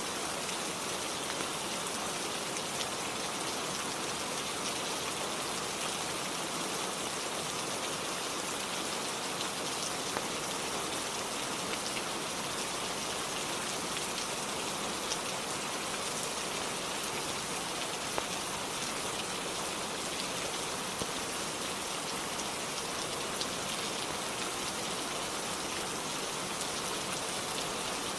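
Steady rain falling on a roof: an even, unbroken hiss of rainfall with a few faint scattered ticks.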